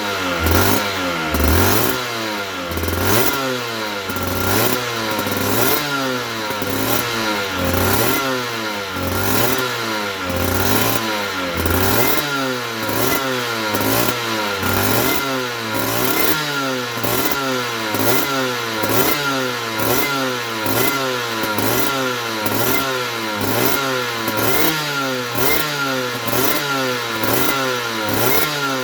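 2008 Aprilia RS125's single-cylinder two-stroke engine revved in quick, repeated blips, its pitch rising and dropping about once a second without pause.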